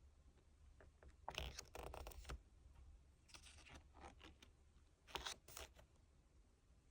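Paper and plastic rustling and scraping from album packaging and pages being handled, in three short bursts, the first the longest.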